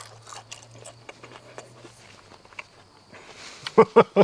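Soft, scattered crunching and clicking of a man chewing a whole cooked soft-shell crawfish, shell and all. Near the end he breaks into a short burst of laughter.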